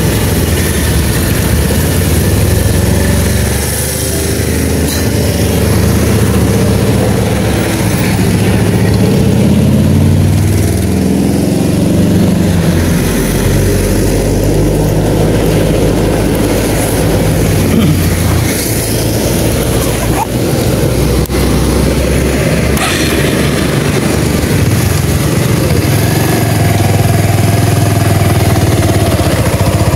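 Motorcycle engine running on the move, its pitch rising and falling as the revs change.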